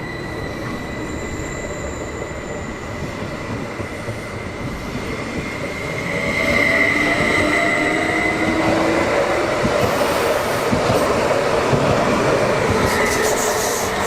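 Electric train running through the station. Its running noise grows louder about six seconds in, with a whining tone and wheel noise on the rails.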